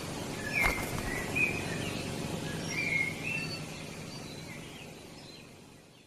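Birds chirping in short calls over a steady outdoor hiss, with one sharp click about a second in; the whole fades out over the last few seconds.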